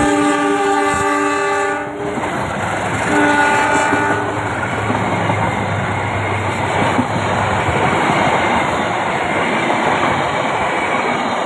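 Diesel locomotive's multi-note horn sounding a long blast as the locomotive passes close, then a second shorter blast about three seconds in. After it, the passenger coaches roll past, wheels clattering over the rail joints.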